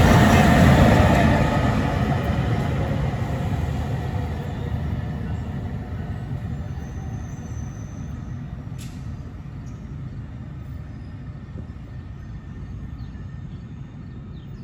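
A passing electric train on the Northeast Corridor moving away, its rumble of wheels on rail fading steadily over about six seconds into a low background. A single sharp click comes about nine seconds in.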